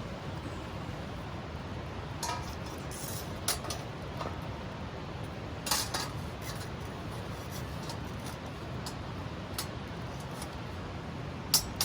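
A few scattered clinks and knocks of camp cookware being handled, one or two ringing briefly, over a steady low rumble.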